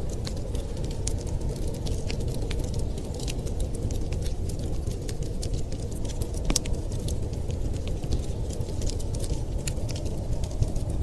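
Wood fire crackling in a fireplace, with many small irregular pops and one sharper pop about six and a half seconds in, over a steady low rumble.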